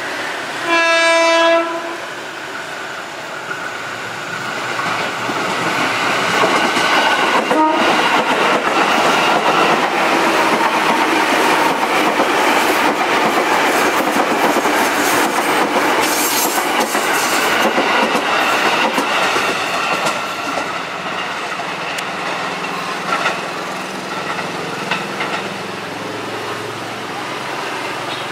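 Electric commuter train sounding one short horn blast about a second in, then running past close by on a curved track. The wheel and rail noise swells, holds for about fifteen seconds as the carriages go by, and then fades.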